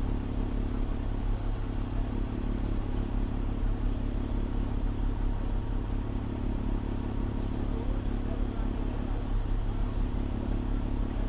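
Fire engine's engine running at a steady speed, an even low hum with no change in pitch or level, heard from the dashcam inside the cab.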